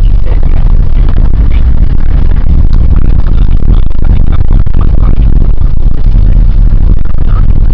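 1998 Nissan Eagle pickup truck driving: a loud, constant low rumble of engine and road noise with rattles over it.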